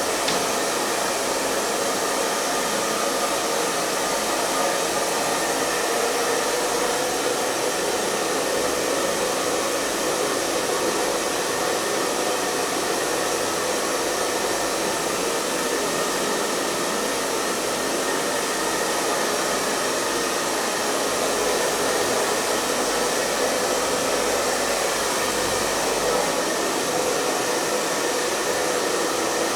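Hair dryer running steadily: an even rush of blown air with a faint motor hum, unchanging throughout.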